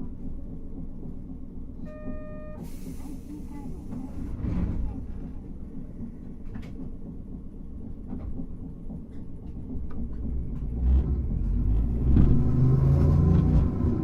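Hankai Tramway car 351, heard on board, with a steady low rumble. About two seconds in there is a short electronic beep, then a brief hiss of air. The rumble of the motors and wheels grows louder from about ten seconds in.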